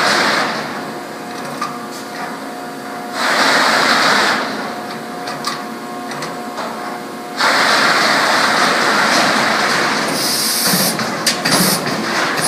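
Whitney 40-ton CNC punch/plasma machine running through a cycle: loud hissing spells alternate with a steadier motor hum. Rapid clicks and knocks join in near the end.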